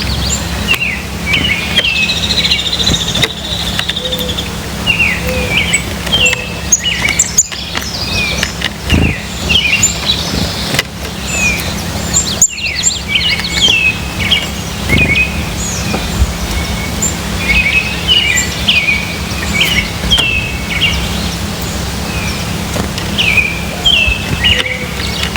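Several birds chirping in quick, overlapping short calls, over a steady low hum.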